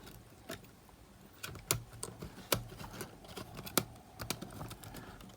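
Faint, scattered light clicks and taps of small parts and tools being handled while a portable cassette player is reassembled, about eight clicks at uneven intervals.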